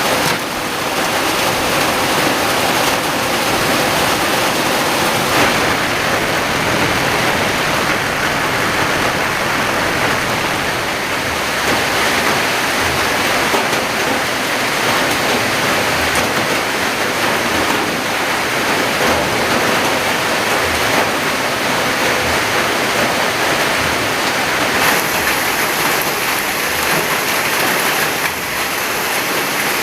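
Heavy rain pouring down steadily, a dense even hiss of water.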